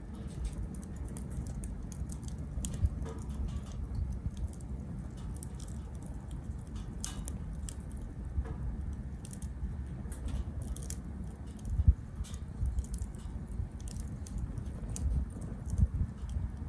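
Small wood fire crackling in a compact B6 tabletop grill: irregular sharp pops and snaps over a steady low rumble, with one louder knock about twelve seconds in.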